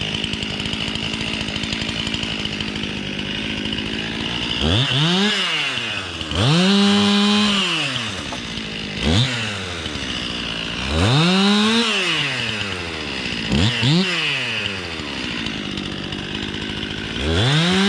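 Stihl MS 261 two-stroke chainsaw idling steadily, then revved up about six times, each time climbing to full speed and dropping back within a second or two, as it is used to cut brush.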